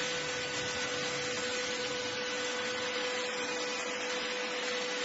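ST6101 cordless stick vacuum cleaner running, a steady motor whine over rushing air.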